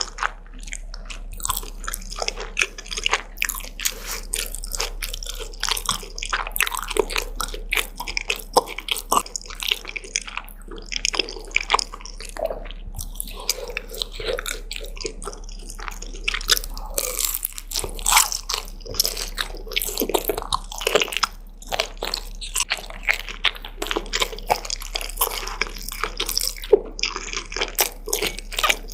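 Close-miked eating sounds: a person biting and chewing food with their mouth near the microphone, a constant run of wet clicks and crackles.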